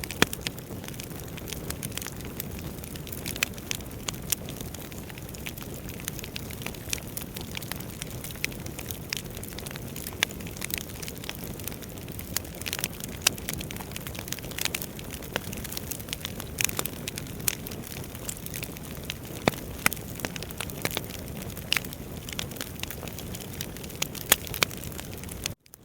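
Wood fire burning in a fireplace: a steady low rush of flames with frequent sharp crackles and pops from the burning logs. The sound drops out briefly just before the end.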